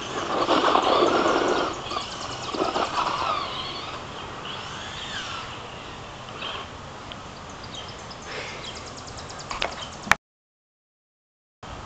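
Outdoor birds calling: harsh caw-like calls in the first three seconds and higher chirps scattered through. About ten seconds in there is a sharp click, and then the sound cuts out completely for over a second.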